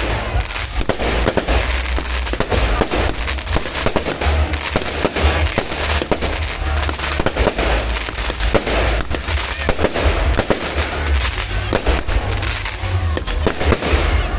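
Continuous barrage of fireworks: many overlapping bangs and crackles with no pause, over a deep low rumble.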